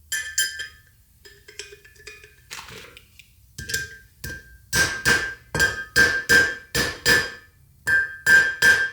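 Hammer blows on a drift, driving a new bearing race into a 1987 Toyota 4Runner front hub, each blow ringing. A few light taps come first, then a steady run of harder blows, about two to three a second, over the second half.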